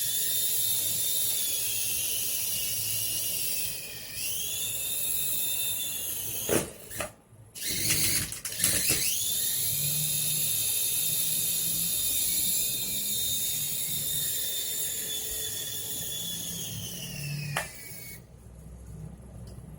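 Toy remote-control helicopter's small electric rotor motor running with a steady high whine. It dips in pitch about four seconds in, stops briefly around seven seconds, then spins back up. Near the end the whine sags and cuts off as the battery goes flat.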